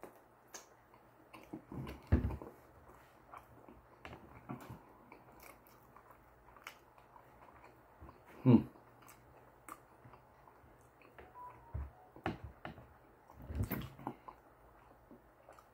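A person chewing a mouthful of sushi, with soft wet clicks and smacks. A single louder short sound comes a little past halfway.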